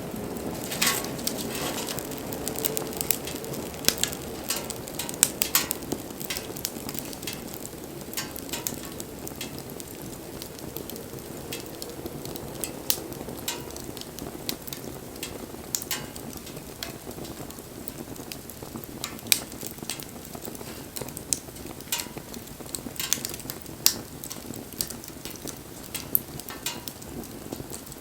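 Wood fire burning, crackling with frequent sharp irregular pops and snaps over a steady rush of flame, the rush somewhat fuller in the first few seconds.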